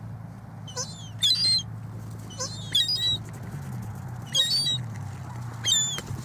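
Gulls calling while being fed, with several short, high-pitched squeals and cries about a second apart, some falling in pitch. A steady low hum runs underneath.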